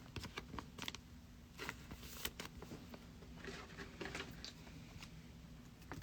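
Faint clicks and short rustles of trading cards being handled on a desk, over a low steady hum.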